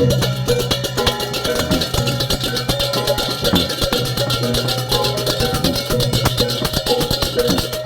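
Balinese gamelan playing for a barong: a fast, dense run of metallic strikes over sustained pitched notes and a steady low tone.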